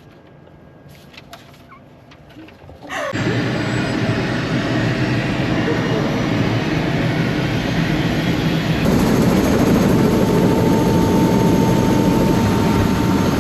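Helicopter cabin noise, engine and rotor running in flight. It starts abruptly about three seconds in after a quiet stretch with a few small clicks, and a steady tone joins it near ten seconds in.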